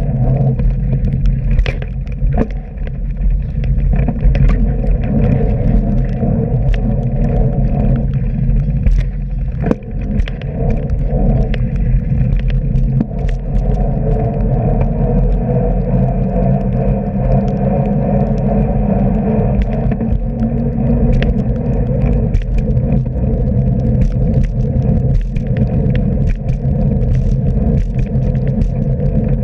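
Riding noise from a bicycle on the move: a steady, loud rumble with frequent small clicks and rattles scattered through it.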